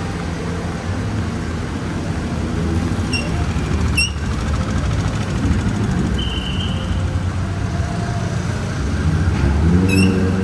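Road traffic: engines of passing and idling vehicles make a steady low rumble, and one engine's note rises near the end as it pulls away.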